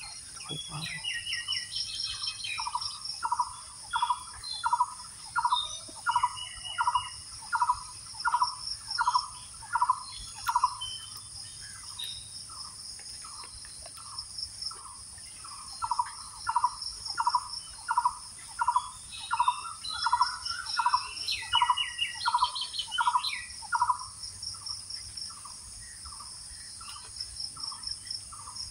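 A bird repeats a short note over and over, about one and a half calls a second, in two long series with a pause between. Higher bird chirps come in now and then, over a steady pulsing buzz of insects.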